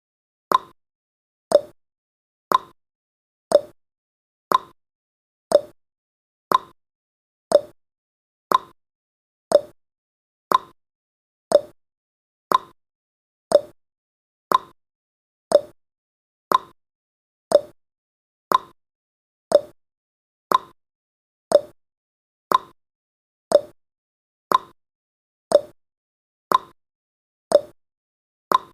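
Clock ticking sound effect of a countdown timer: one sharp tick each second, alternating higher and lower in pitch like a tick-tock.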